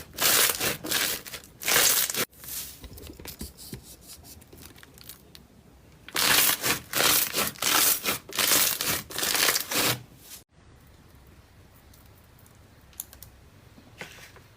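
Slime being squeezed and pulled apart close to the microphone, giving rapid bursts of crackly, tearing noise. The bursts come in two spells, a short one at the start and a longer one after a few seconds of softer handling, then stop about two-thirds of the way in.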